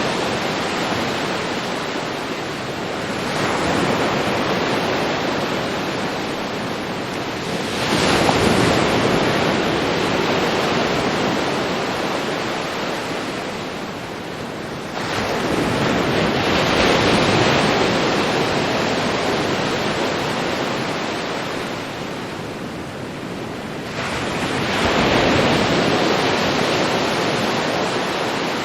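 Ocean waves breaking on a beach: four waves in turn, each surging in and then fading as it washes out.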